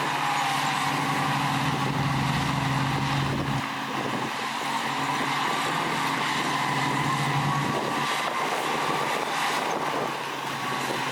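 Heavy diesel earthmoving machinery running steadily, with a high whine over the engine note; the low engine hum eases off a few seconds in.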